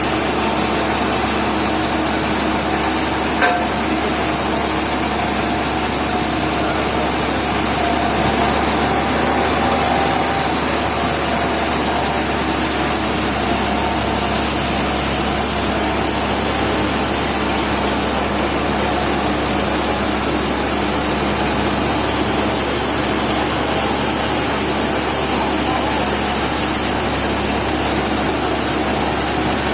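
Portable sawmill running steadily, its engine and saw making a continuous dense noise. There is one short sharp click about three and a half seconds in.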